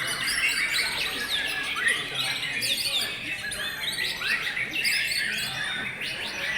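Many white-rumped shamas (murai batu) singing at once: a dense, unbroken mix of quick whistled phrases and chirps sweeping up and down, overlapping with no pause.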